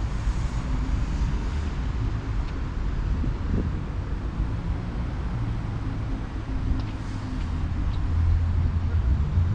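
Low rumble of a train at a station platform, a steady hum that grows louder near the end.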